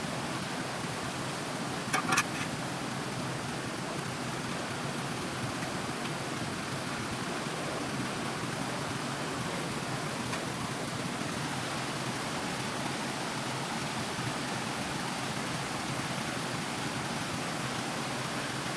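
Steady rushing of stream water, with a few sharp clicks about two seconds in.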